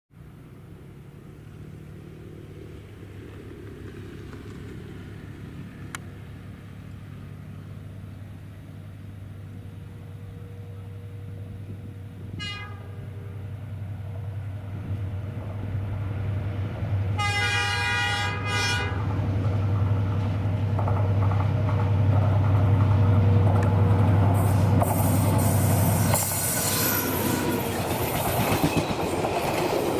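Diesel train approaching with its engine drone steadily growing louder, sounding a short horn toot about twelve seconds in and a longer horn blast around seventeen seconds. Near the end the train arrives and passes with loud wheel and rail clatter.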